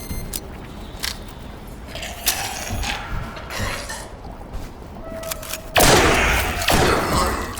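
Designed mechanical sound effects: scattered metallic clicks, ratcheting and clanks with short ringing tones. About six seconds in comes a loud, noisy blast lasting over a second, the loudest sound here.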